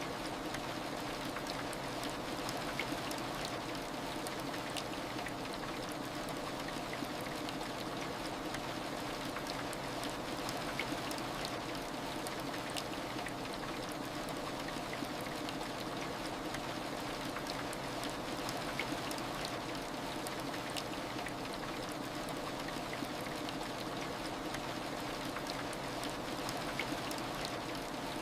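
Steady heavy rain ambience: an even wash of rainfall with scattered individual drops ticking through it.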